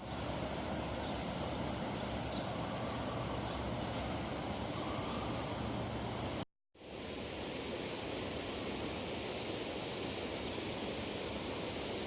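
Summer insect chorus: a steady high trill, with short paired chirps repeating about once a second over the first half. It breaks off briefly about six and a half seconds in and resumes with the trill alone.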